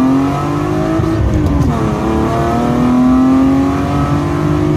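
A car engine accelerating hard, its pitch climbing, then dropping back sharply about a second and a half in as it shifts up, and climbing again.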